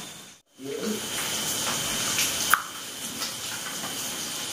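Grasshoppers frying in hot oil: a steady sizzle with scattered sharp pops and crackles, the loudest about two and a half seconds in.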